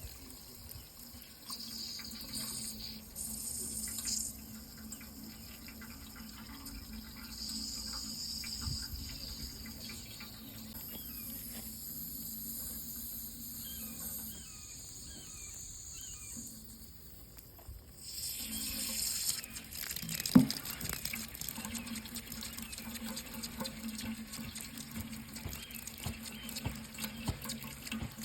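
Water running steadily from a tap into a sink. It grows louder about two-thirds of the way through, and there is a single sharp knock shortly after.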